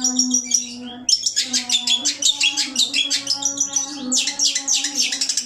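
Songbird singing a fast, continuous run of high chirps and twitters, with a short break about a second in, over a low steady hum.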